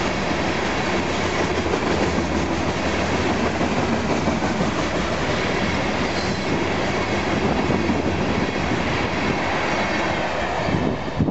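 Union Pacific freight train's covered hopper cars rolling past close by: steady rumble and clatter of steel wheels over the rails, with a few louder knocks near the end.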